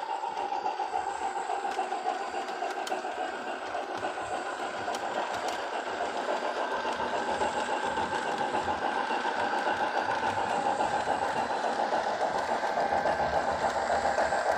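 Steam exhaust chuffing from an HO scale model Southern 4-6-2 Pacific's sound decoder, played through the model's small speaker: rapid, steady chuffs that grow gradually louder.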